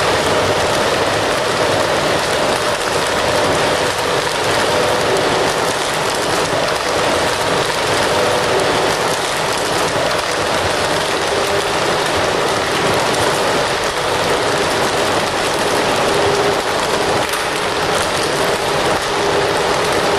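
Wood fire crackling steadily, a dense unbroken stream of small crackles and hiss.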